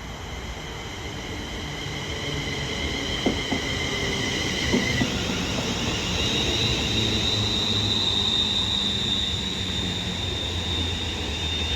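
London Northwestern Railway Class 350/2 electric multiple unit arriving and drawing to a stand in the platform: high, steady whining tones from the train that change pitch about five seconds in, a few sharp clicks in the middle, and a low hum that grows louder.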